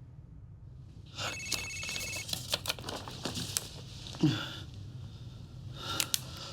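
A phone ringing briefly about a second in, followed by a run of sharp clicks and handling noise, with a short falling sound just past the middle.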